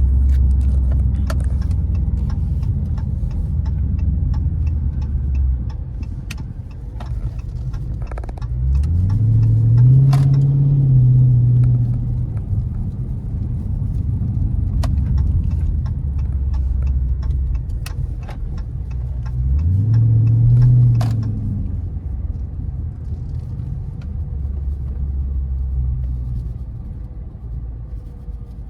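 Car engine running at low revs with a steady low rumble, rising in pitch and falling back twice, about nine and twenty seconds in, as the car gets brief throttle. Scattered light clicks and rattles.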